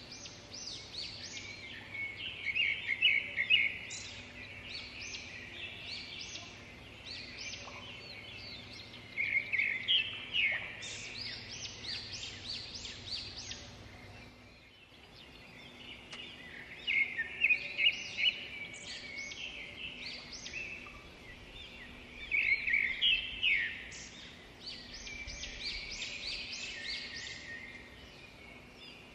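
Songbirds singing: bursts of rapid, high chirps and trills come every few seconds over a faint steady background.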